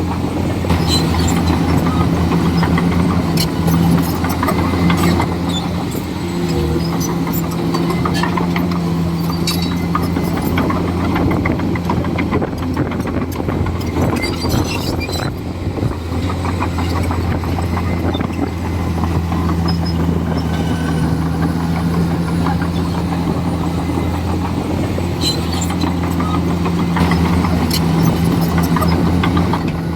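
Komatsu D41E bulldozer's diesel engine running steadily at a low, even pitch, with scattered sharp knocks and clanks throughout.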